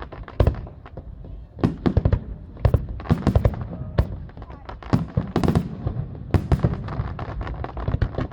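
Fireworks display: aerial shells bursting in a rapid, irregular series of sharp bangs, several to a second at times, over a continuous low rumble.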